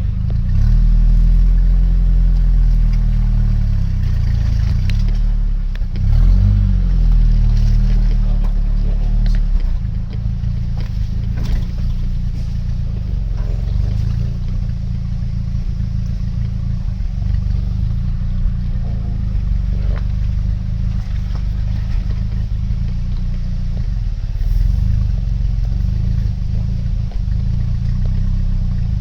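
A vehicle's engine and road drone, a steady low rumble that shifts in pitch a little about six seconds in.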